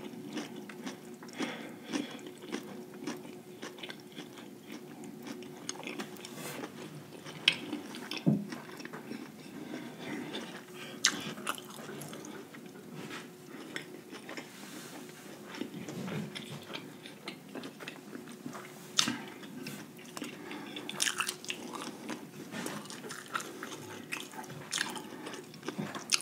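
Close-miked chewing and crunching of a breaded, deep-fried lobster tail: wet mouth sounds broken by scattered sharp crisp crackles, over a faint steady hum.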